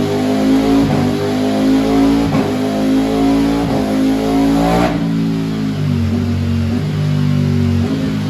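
Ducati Streetfighter V4's 1103 cc V4 engine through a full titanium Akrapovic race exhaust, pulling under load on a dyno with its pitch rising as it climbs the revs. About five seconds in, the throttle is shut at the end of the power run.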